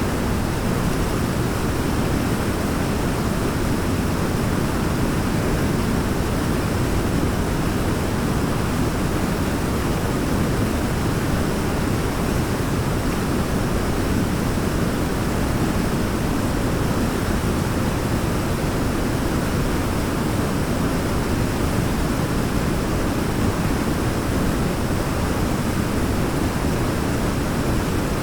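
Waterfall rushing steadily, an even, deep hiss of falling water with no change or break.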